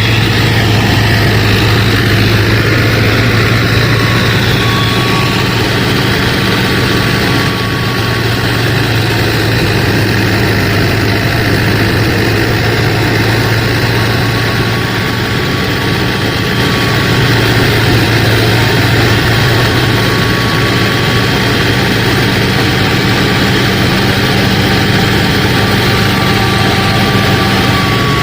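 The motor of a homemade miniature combine harvester running steadily with a low, even hum.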